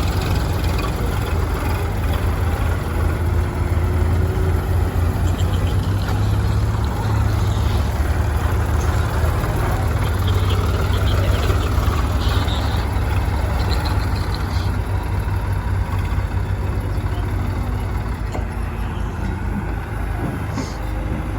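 Heavy diesel engine running steadily with a deep low drone, easing slightly in level over the last few seconds.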